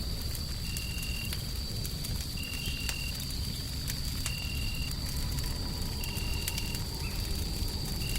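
Wood fire crackling, with scattered sharp pops over a steady low rumble of white noise. A thin steady high tone runs through it, and a short high tone repeats about every one and a half seconds.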